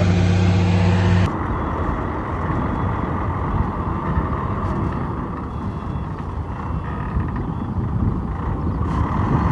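Heavy construction machinery engines running: a loud, steady engine hum that cuts off about a second in, giving way to a rougher, noisier engine sound.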